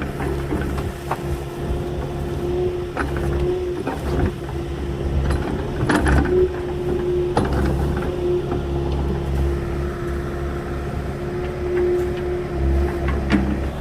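Small farm excavator's engine running steadily, a low hum with a higher tone that wavers in level, while the machine works with scattered clanks and knocks.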